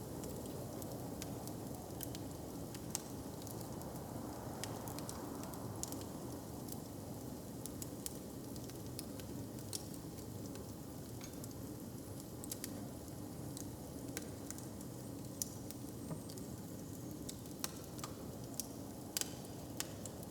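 Open fire crackling: irregular sharp pops and snaps over a steady low rumble.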